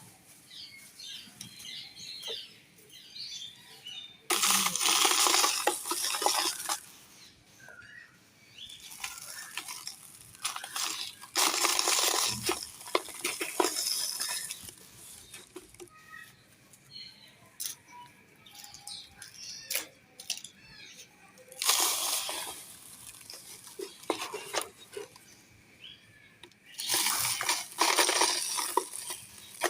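Dry baked black-sand clay being crushed and crumbled by hand, crunching and crackling in four bursts of a few seconds each, with scattered small ticks of crumbs falling between them.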